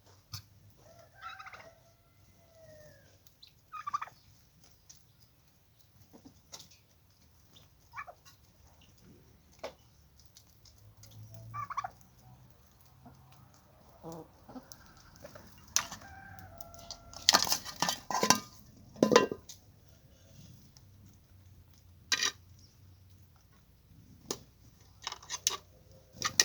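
Chickens clucking and calling on and off, with short pitched calls that rise and fall, and scattered sharp clicks. A loud cluster of sharp sounds comes about seventeen seconds in.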